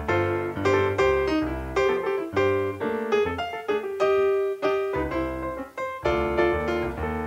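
Background piano music: a gentle melody of single struck notes, each fading, over low bass notes.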